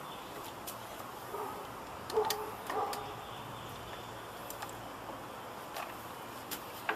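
Scattered clicks and small knocks of plastic and metal parts being handled inside a desktop computer case as a hard drive's cables are plugged in, the sharpest about two seconds in and just before the end, over a steady hiss.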